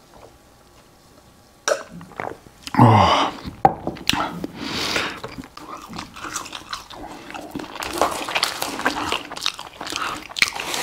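A man chewing French fries close to a clip-on microphone, with many small wet crunches and mouth clicks through the second half. About three seconds in there is one loud throaty vocal sound dropping in pitch, just after a drink of cola.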